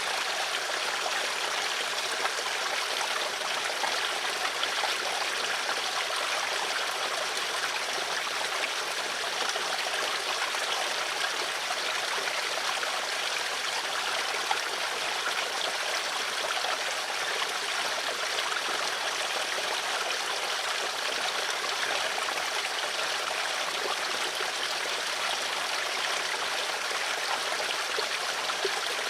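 Flowing water in a stream, running steadily with a fine trickling and splashing texture.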